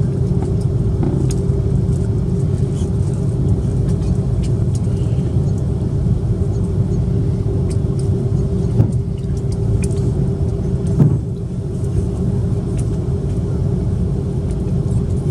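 Steady cabin rumble of a Swiss Airbus A330-300 on the ground after landing, the engines humming with a steady tone over the rumble while it taxis. Two short thumps come past the middle, a couple of seconds apart.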